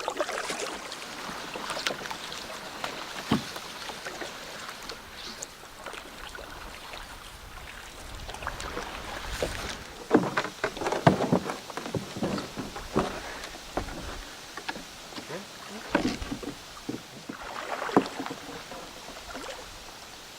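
Canoe being paddled: paddle strokes in the water with irregular sharp knocks, loudest in clusters about halfway through and again near the end.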